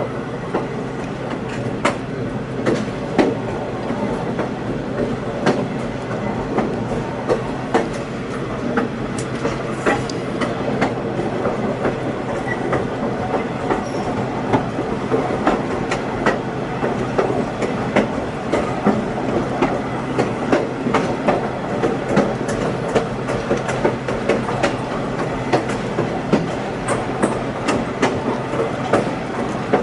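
A passenger train rolling along, heard from aboard: a steady rumble with frequent, irregular sharp clicks and knocks from the wheels on the track.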